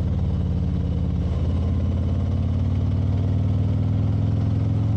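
Motorcycle engine running steadily while riding, with a slight shift in pitch about a second and a half in.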